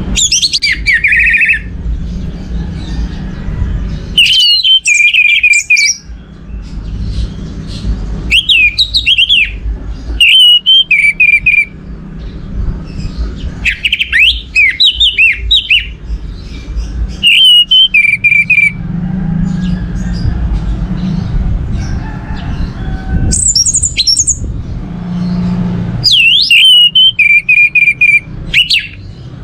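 Orange-headed thrush singing: loud phrases of varied whistles and warbles, each a second or two long, repeated with short pauses between them, over a low background rumble.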